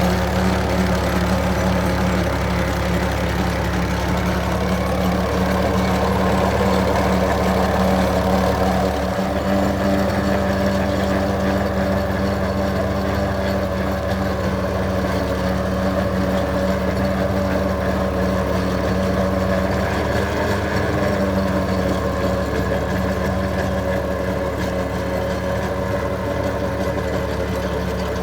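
Tractor engine running steadily at a constant speed, a continuous drone with no change in pitch.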